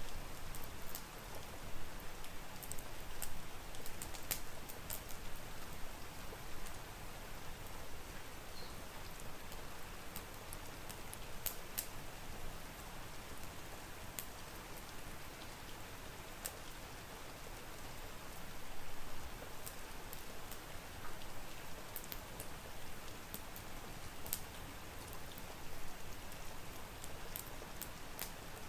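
Steady rain mixed with a crackling wood fire: an even hiss broken by scattered sharp pops at irregular intervals.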